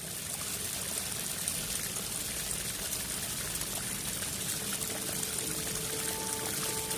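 Heavy rain pouring down, a steady, even hiss of falling water. Faint held musical notes come in about four and a half seconds in.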